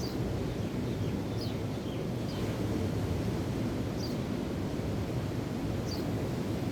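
Steady wind rumbling on the microphone with waves washing behind it. Small birds give short, high, falling chirps about half a dozen times.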